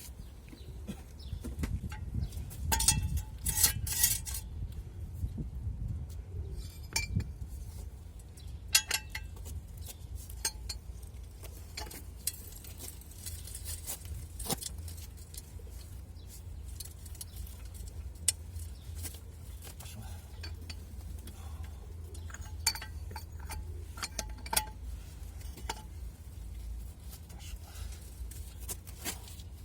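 Metal hand tools and steel parts clinking and tapping against each other: scattered light metallic clicks, with a busier rattle about three to four seconds in.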